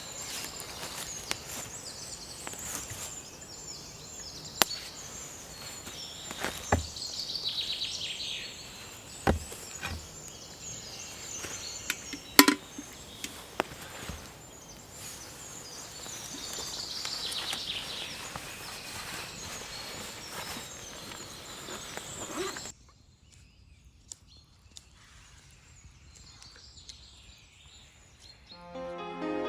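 Outdoor woodland ambience: a steady hiss with scattered sharp clicks and snaps and a few bird calls. A few seconds before the end it drops suddenly to a much fainter hush.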